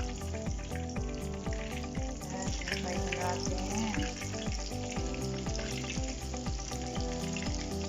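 Flour-coated chicken wings sizzling steadily as they deep-fry in hot oil.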